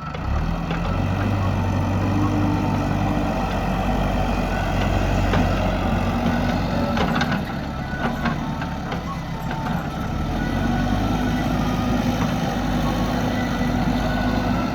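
Diesel engine of a JCB backhoe loader running at working speed, its pitch rising and falling as it digs and loads, with a few short metallic knocks a little past the middle.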